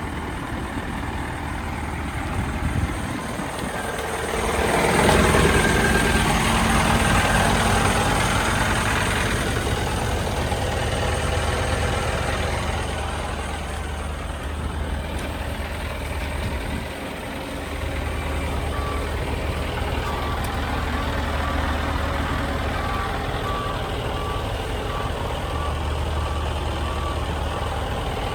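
Scania G 410 truck's diesel engine running steadily, swelling louder for a few seconds about four seconds in before settling. From about 18 seconds in, a reversing alarm beeps at an even pace.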